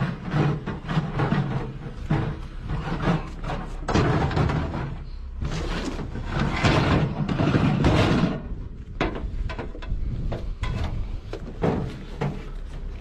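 Repeated knocks, bangs and clatter of objects being handled and shifted about, with longer stretches of rustling or scraping around four and seven seconds in.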